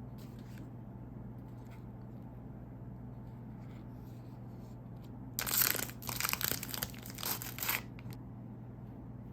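Plastic wrapper of an Umaibo corn-puff stick crinkling and tearing open, a loud crackling stretch of about two seconds starting a little after halfway through.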